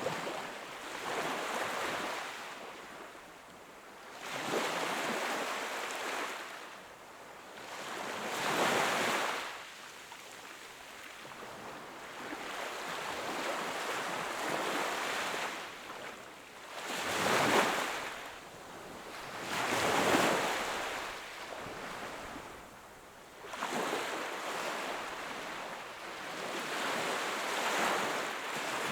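Ocean waves breaking and washing up a shore, coming in surges every few seconds, each swelling and then fading away; the two loudest arrive a little past the middle.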